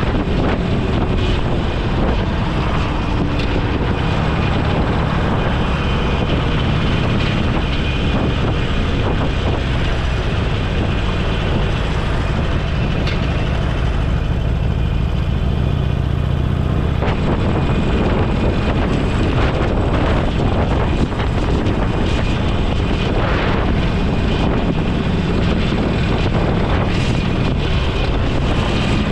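Motorcycle engine running while riding, mixed with a steady rush of wind over the microphone.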